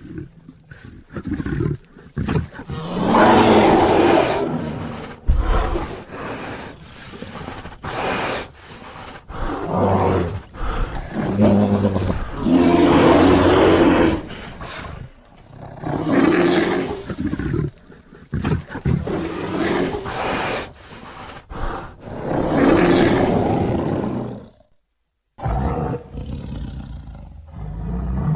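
Film sound effects of a bear roaring and growling: a run of long, loud roars, each a second or two, with shorter growls between them, broken once near the end by a brief cut to silence.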